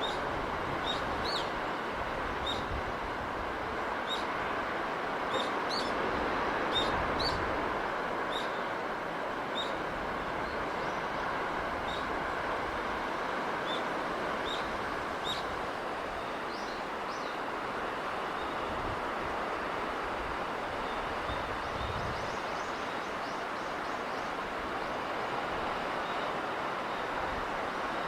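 Steady wash of the sea and sea breeze, with a small bird giving short high chirps, about one or two a second through the first half and sparser later.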